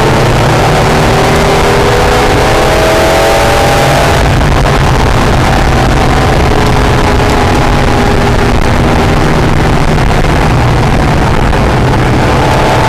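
Acura NSX's V6 engine driven hard on a racetrack, heard from inside the car over wind and road noise. Its pitch climbs for about four seconds, then the note drops and runs steadier through the rest.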